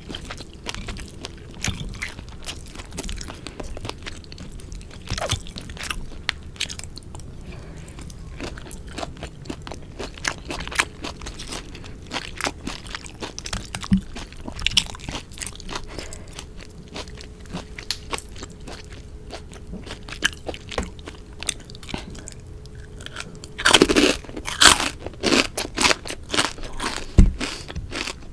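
Close-miked eating sounds of someone chewing sukiyaki: steady chewing with crisp crunches and mouth clicks throughout, then a louder run of crunching bites a little before the end.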